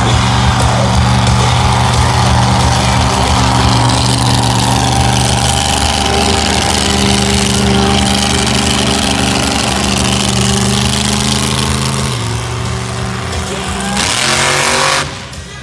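Monster truck's big-block Chevy engine held at high revs through a donut, loud and steady. The note shifts about twelve seconds in, and the engine drops off sharply near the end.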